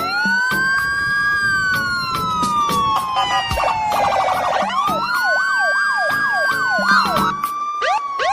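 Siren wailing: each wail rises fast and then falls slowly, and about five seconds in it switches briefly to a fast up-and-down yelp. Evenly spaced clicks keep a steady beat underneath.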